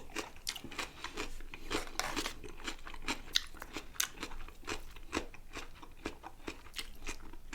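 Close-miked chewing with crisp, irregular crunches, many small clicks a second.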